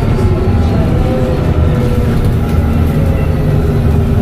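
Dennis Trident double-decker bus's diesel engine running under way with a steady low drone, overlaid by a turbo whistle whose pitch drifts gently up and down.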